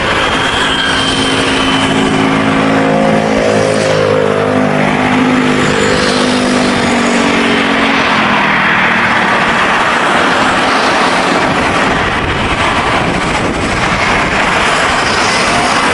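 Boeing 787-9 airliner's twin jet engines on landing approach, passing by with a loud steady roar; its engine tones fall in pitch between about two and eight seconds in as it goes past.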